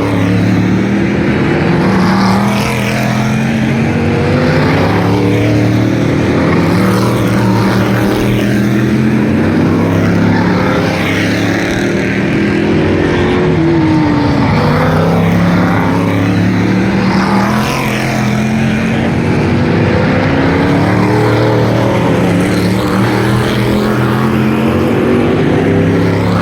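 Several V8 stock car engines running hard in a race, their pitch rising and falling as the cars lap.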